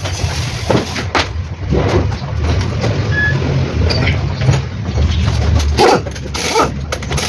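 Mitsubishi Pajero's 4M40 four-cylinder diesel engine running with a steady low drone, cut by sharp, irregular sounds. This is the engine whose knocking the owner is chasing.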